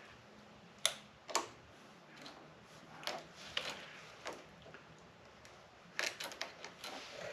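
Irregular sharp clicks and light knocks of hand tools and small parts being handled during garden tractor repair work, with a cluster of quick clicks about six seconds in.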